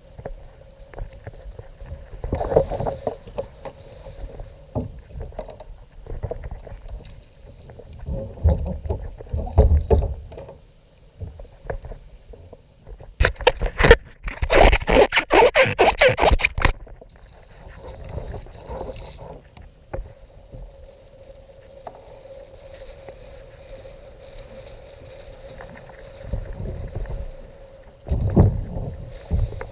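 Kayak on the water: uneven knocks and water sloshing against the hull, with a loud rushing splash lasting about three seconds midway and a faint steady hum underneath.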